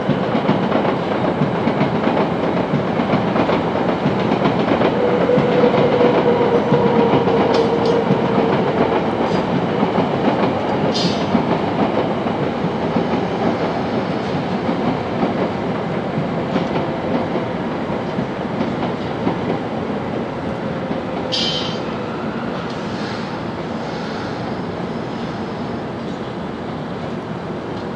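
Shinkansen bullet train moving along the platform, its rolling noise peaking about six seconds in and then slowly fading, with two brief high squeaks along the way.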